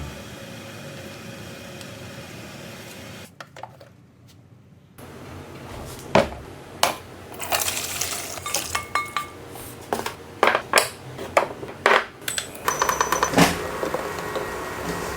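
Metal utensils and dishes clinking and knocking in a string of sharp clicks, some with a brief metallic ring, starting after a few seconds of low hum.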